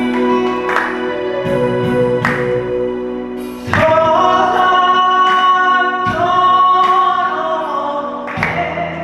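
Korean trot song with keyboard accompaniment and choir-like vocals holding long notes; the music swells fuller and louder a little under four seconds in.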